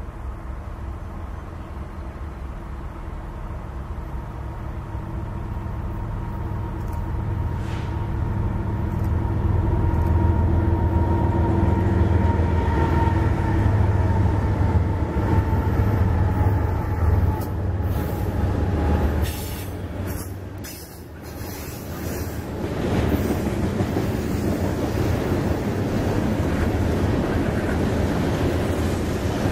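Freight train passing: BNSF diesel locomotives approach and rumble by, their engine drone growing to its loudest partway through. Then a long string of tank cars rolls past with steady wheel-on-rail noise and a few knocks.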